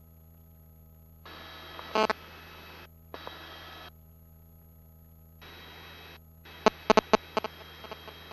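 Helicopter cabin intercom audio: a steady low hum of the helicopter under a hissing channel that cuts in and out several times. There is a short loud crackle about two seconds in and a run of sharp clicks near the end.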